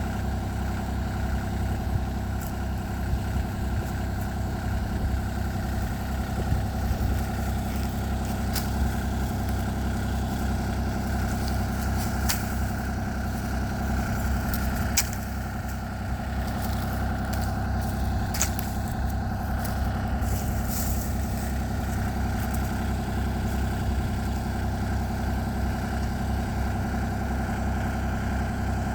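Mini excavator engine running steadily under work, with a few sharp knocks through the middle of the stretch.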